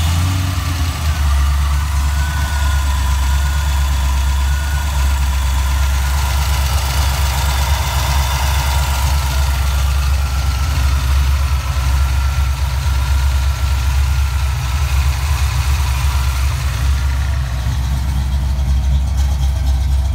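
1988 Mustang GT's 5.0 L small-block Ford V8 idling steadily on a cold start, running on Holley Terminator X fuel injection that is still being tuned and tends to stall when cold. A faint high whine sits over the idle for much of the time.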